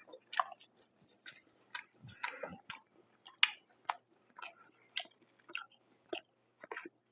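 Close-miked chewing of a mouthful of Detroit-style pizza: a run of short, irregular wet mouth clicks and smacks, about two a second.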